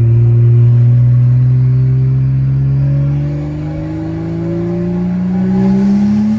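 BMW 135i's N55 turbocharged straight-six accelerating, its engine note rising steadily in pitch through one long pull.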